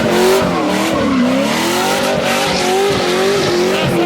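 A car spinning donuts: the engine is held high in the revs, its pitch rising and falling over and over, while the rear tires squeal and skid.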